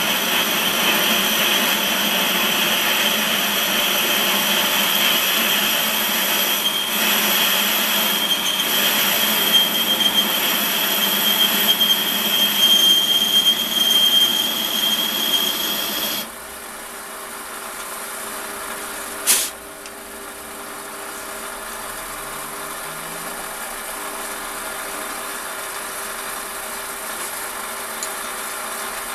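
Metal lathe cutting inside a bore, the tool on the metal giving a steady high-pitched squeal over the cutting noise. About 16 seconds in the cut stops and the lathe runs on more quietly, with one sharp click a few seconds later.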